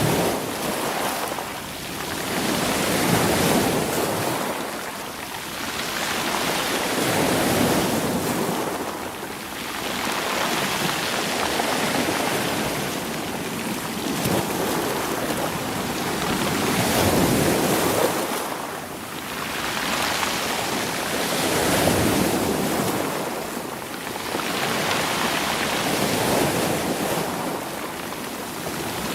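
Sea waves washing in against rocks and rolling the stones. The surf swells and falls every few seconds, about eight waves in all.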